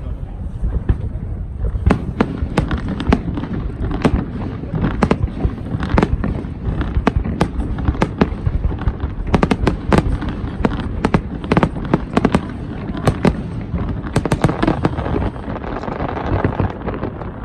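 Fireworks display: a rapid, irregular run of shell bursts and bangs, dozens of them, thinning out near the end.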